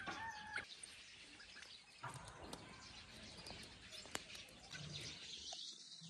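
Faint outdoor ambience with a short bird call right at the start, two clear steady pitches lasting about half a second, and scattered small ticks afterwards.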